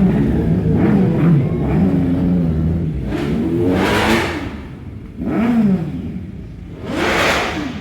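Superbike engines revving, the pitch rising and falling again and again, with two louder rushes of sound, one about halfway through and one near the end.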